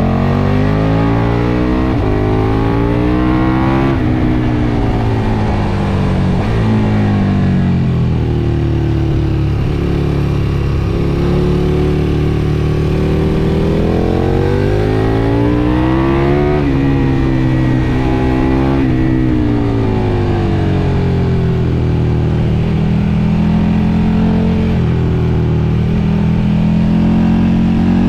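KTM 1290 Super Duke GT's V-twin engine with a Mivv MK3 carbon exhaust accelerating hard through the gears, the pitch climbing with quick breaks at the upshifts over the first few seconds. It then winds down and back up several times as the throttle is closed and reopened, and holds fairly steady near the end, over a constant wind rush.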